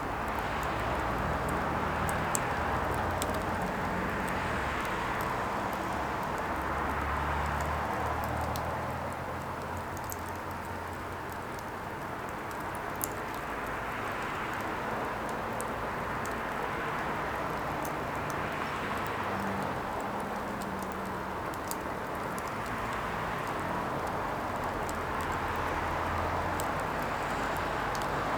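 Burning firewood: a steady rushing fire sound that swells and eases every few seconds, with scattered sharp crackles and pops.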